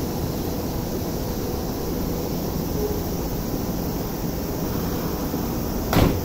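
Steady hum and rumble of a Tokyo Metro train standing at the platform with its doors open, with one short thump near the end.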